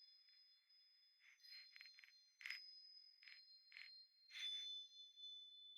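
Soft wind chimes ringing faintly, about ten irregular light strikes whose high tones linger and overlap.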